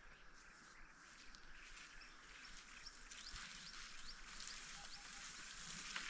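Faint outdoor ambience with a steady high hiss. About midway comes a quick run of short, high, rising bird chirps, then a few fainter lower notes.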